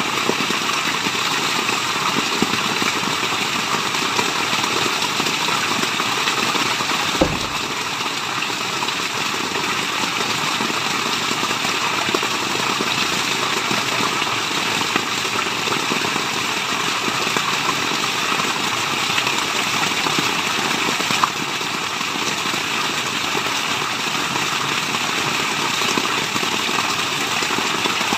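Steady rushing water of a waterfall, an even white noise with no change in level, broken by a single sharp click about seven seconds in.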